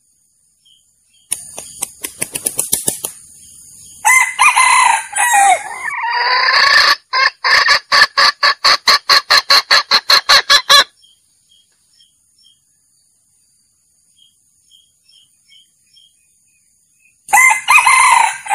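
Male junglefowl (wild rooster) crowing and calling. A quickening run of sharp claps comes about a second in, then a crow, then a fast run of about four clipped calls a second for several seconds, and another crow starts near the end.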